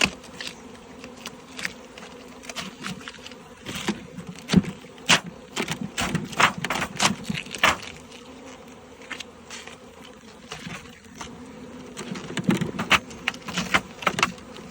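Honey bees buzzing in a steady hum around an opened hive box, with scattered sharp clicks and knocks over it.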